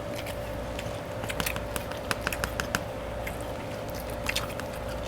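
Close-miked chewing and mouth sounds of someone eating Chinese takeout: wet clicks and smacks, a run of them between about one and three seconds in and a couple more near the end.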